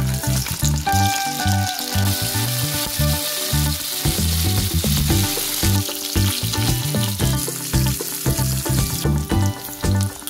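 Chicken pieces sizzling as they fry in hot oil in a pan, with background music under it. The sizzling drops away sharply about nine seconds in.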